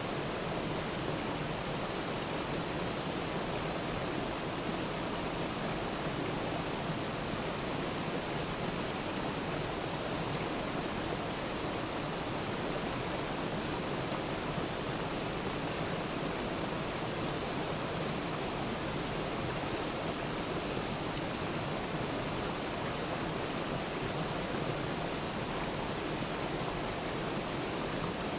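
Waterfall: water pouring steadily with an even, unbroken rushing sound.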